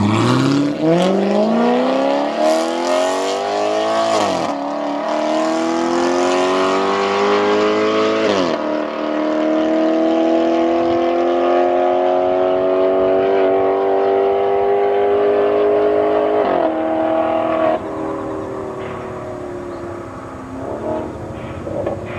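Maserati GranTurismo V8 starting up through a Kreissieg valvetronic cat-back exhaust: it catches with a rising flare of revs, settles into a loud, fast idle with a few brief dips in pitch, then drops to a quieter, lower idle about 18 seconds in.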